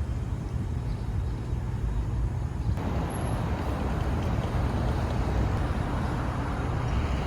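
Steady low rumble of traffic noise, with a hiss that grows louder about three seconds in.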